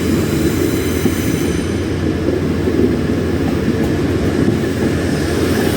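Class 180 diesel multiple unit running past at close range, a steady low engine-and-wheel noise with no distinct clicks or changes.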